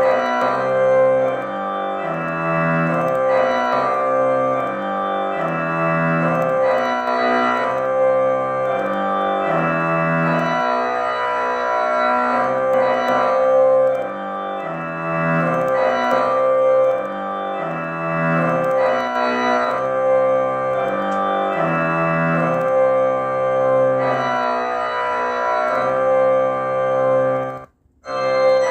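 Organ-sounding keyboard playing sustained chords that change every second or two, with a short break near the end.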